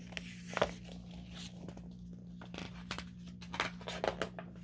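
Picture-book pages being turned and handled: short paper rustles and light knocks, over a faint steady hum.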